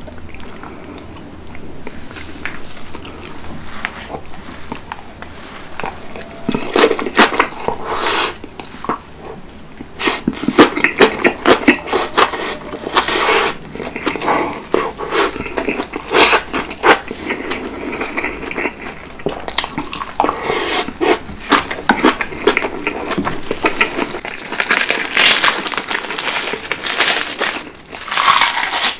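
Close-miked chewing and crunching of kimchi and rice, in bursts of wet crunches. Near the end comes a crisp crackle as a roasted seaweed wrap is bitten.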